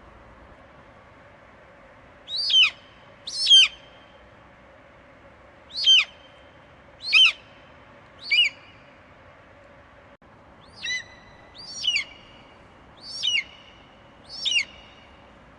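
Eagle screeching: nine short, piercing calls, each falling sharply in pitch. They come in loose groups, roughly a second apart, over a faint steady background hiss.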